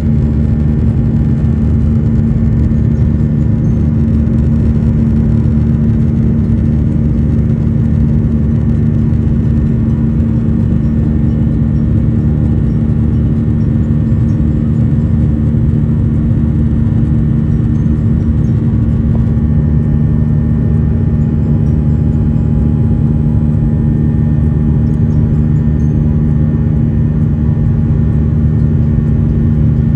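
Airliner cabin noise in flight: the steady drone of the jet engines and airflow, with several low humming tones held throughout. About two-thirds of the way through, the hiss eases a little and the low hum grows slightly stronger.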